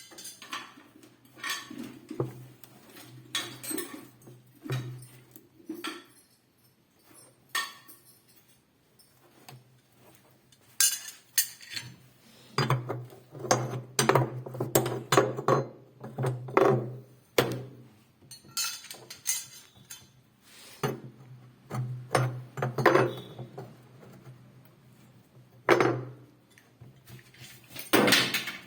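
Irregular metallic knocks and clinks of hand tools and metal parts being handled during work on a washing machine, busiest in the middle and with a sharp knock near the end.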